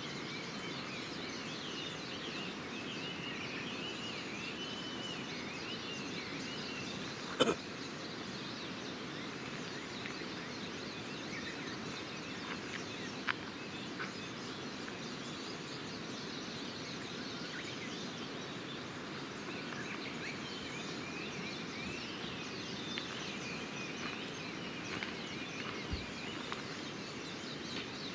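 Campfire crackling, with one sharp pop about seven seconds in and a few fainter ticks, over a steady outdoor hiss with birds chirping in the distance.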